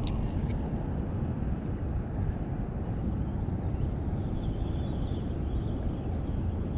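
Steady low rumble of outdoor background noise, with a sharp click at the start and faint high chirping sounds around the middle.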